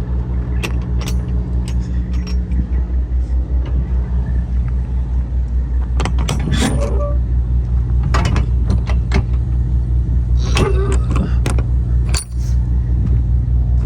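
Semi-truck diesel engine running with a steady, pulsing low throb, overlaid with scattered sharp clicks and jingling rattles.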